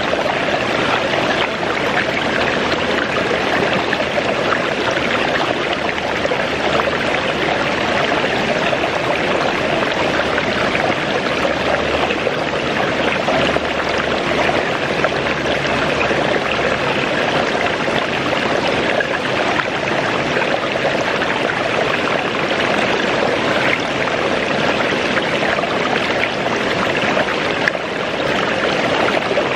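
Waterfall running steadily: a dense, even rush of falling water that does not let up.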